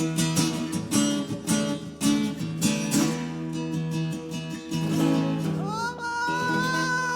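Acoustic guitar strummed in a steady rhythm. Near the end a high voice comes in on one held note that slides up and then holds.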